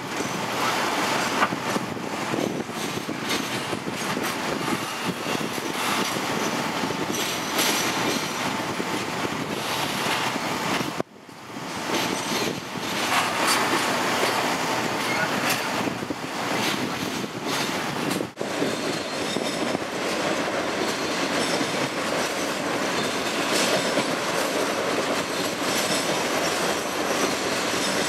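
A Norfolk Southern Triple Crown RoadRailer freight train passing close by: a steady rumble and clatter of steel wheels on rail, with a faint thin squeal at times. The sound cuts out briefly about eleven seconds in and again about eighteen seconds in.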